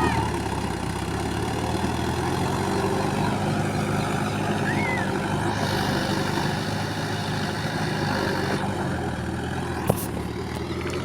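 Heavy engine of a loading machine or truck running at a steady speed, with one sharp click about ten seconds in.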